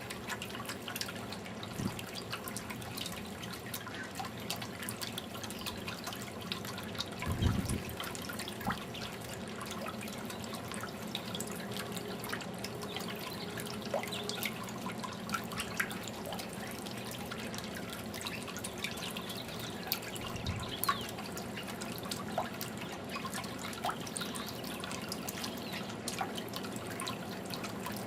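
Fountain water trickling and dripping steadily, with many small drip ticks and a single low thump about seven seconds in.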